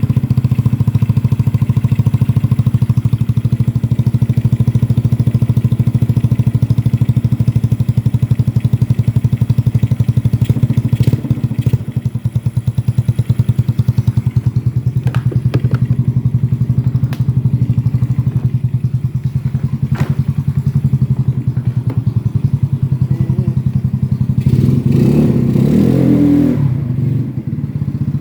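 Yamaha Mio Smile scooter's single-cylinder four-stroke engine idling steadily through an aftermarket Black Devil exhaust with a 38 mm inlet, a low even putter, with a short rev near the end.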